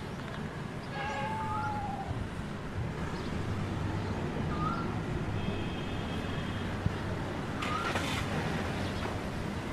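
Short bird chirps and whistled calls, a few seconds apart, over a steady low rumble.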